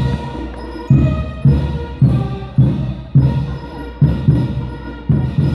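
Marching band playing a march in a parade: a bass drum strikes about twice a second under held brass notes.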